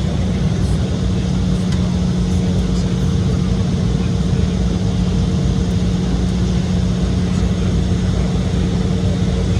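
Steady cabin noise inside an Embraer E175 airliner with its engines running: a constant rumble with a low, even drone underneath.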